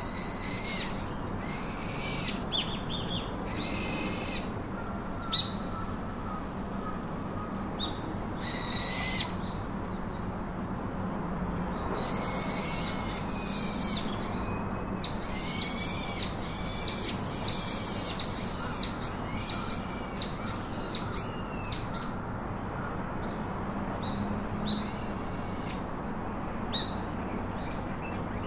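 Birds calling: runs of short, arching chirps, about two a second through the middle stretch, over steady background noise.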